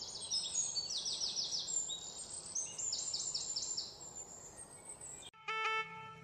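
Birds chirping in quick runs of short, high notes over a faint outdoor background. About five seconds in, the birds cut off and a short run of stepped musical tones begins.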